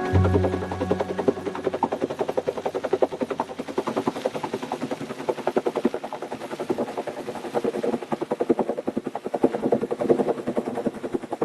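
Helicopter rotor blades chopping in a rapid, even beat.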